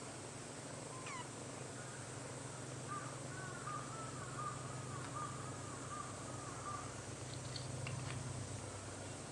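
Young kitten purring steadily while suckling, a low continuous rumble that stops near the end.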